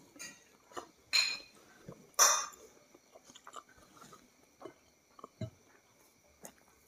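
A person chewing a mouthful of fried chicken and rice eaten by hand, with two louder bursts of mouth noise about one and two seconds in, then quieter scattered clicks as the chewing goes on.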